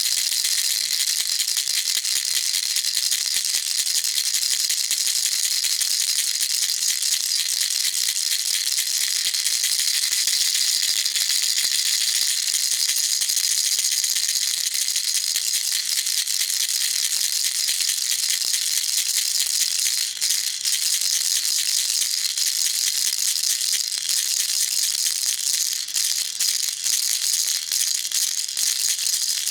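Baby rattle shaken continuously, a dense, high-pitched rattling of small beads with rapid, even strokes and a few brief pauses near the end.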